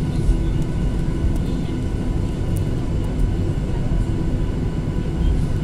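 Cabin noise of a Boeing 737-800 with its CFM56-7B jet engines running: a steady low rumble with a faint even whine of engine tones, and a few light rattling ticks.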